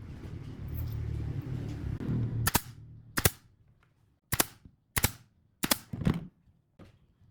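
Pneumatic nail gun firing into wood, about six sharp snaps at uneven intervals starting about two and a half seconds in, the last one fainter. Before them there is a low rumbling noise.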